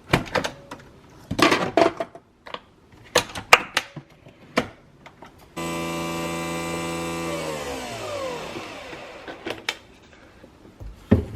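A few clicks and knocks, then a small electric kitchen-appliance motor switches on suddenly. It runs steadily for about two seconds, then winds down with falling pitch after it is switched off. Another knock comes near the end.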